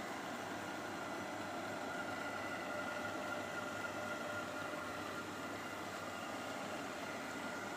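iLIFE robot vacuum running: a steady whir with a faint high whine.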